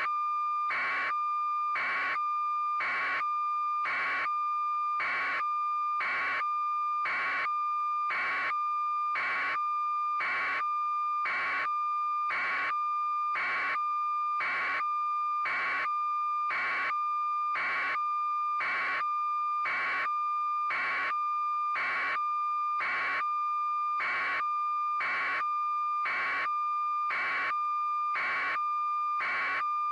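Steady electronic tone with a beep pulsing evenly about once a second, without a break.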